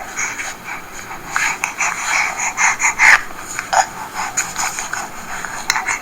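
Recorded baby sounds, fussy, angry yells and croaky grunts in short choppy bursts, played through the small speaker of a Still Moments Nursery Baby Talker reborn-doll sound box.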